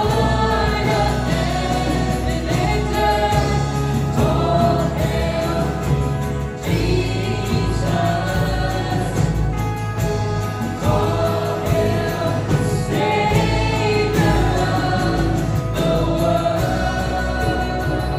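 Group of voices singing a contemporary worship song together over a band, with sustained bass notes underneath.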